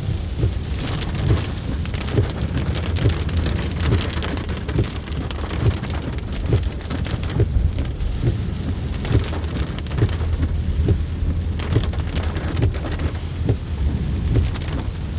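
Heavy rain hitting a car as it drives through a tropical storm, with many small irregular drop impacts over a steady low rumble of the car on the wet road.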